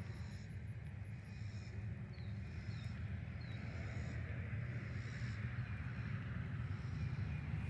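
Pond-side wildlife and a steady low rumble: short high calls repeat about once a second, with a few quick falling chirps among them, over the constant low rumble.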